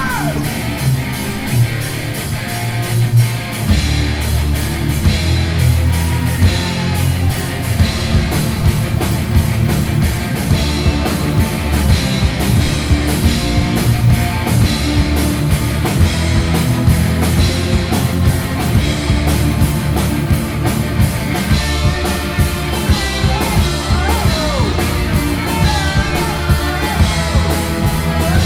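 Rock music with electric guitar and a steady drum beat; the heavy bass end comes in about four seconds in.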